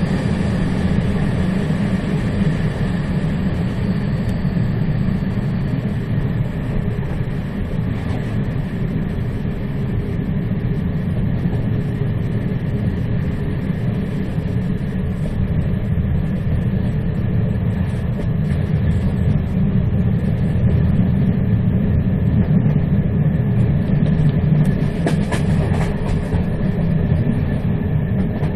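A moving train running steadily: a continuous low rumble of wheels on the track, with a faint steady whine above it and a few brief clicks near the end.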